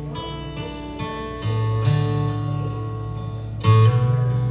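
Acoustic bluegrass band playing an instrumental passage: picked acoustic guitar chords ring out over a low bass line, with new chords struck about every two seconds.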